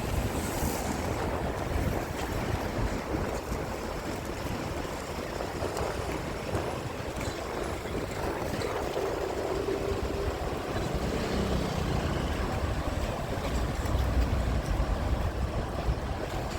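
Low, steady rumble of a rail maintenance vehicle during shunting, mixed with wind noise on the microphone; a faint hum rises out of it about halfway through.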